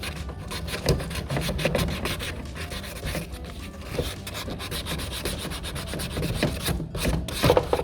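Hand sanding or filing: rapid back-and-forth scraping strokes, several a second, a little louder near the end.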